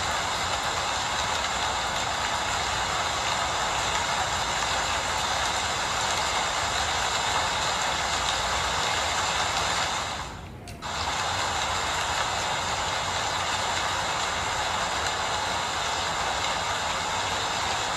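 Steady rain falling, an even hiss with no single drops standing out. It dips briefly a little past halfway, then carries on as before.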